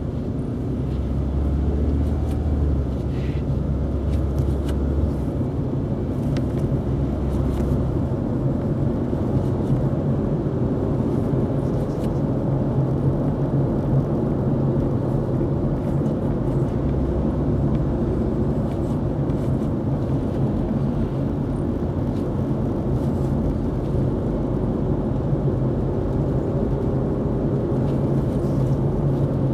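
Inside the cabin of a Toyota Isis 2.0 minivan driving at about 50 km/h: a steady engine hum with road rumble. The engine note changes in steps as the CVT is shifted by hand through its manual-mode gears.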